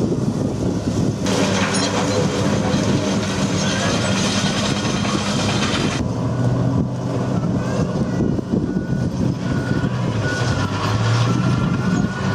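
Type 94 amphibious mine-laying vehicle's engine running steadily under way, heard on board as a loud, even drone. A rushing hiss joins it from about a second in and stops sharply about six seconds in.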